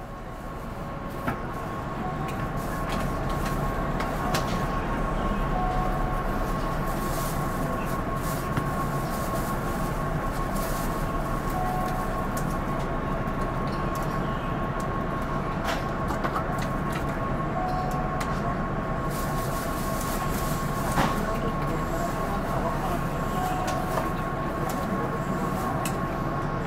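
Keihan 8000 series electric train standing at the platform before departure: its onboard equipment gives a steady hum with a fixed whine, while scattered faint clicks and knocks and a short beep come about every six seconds.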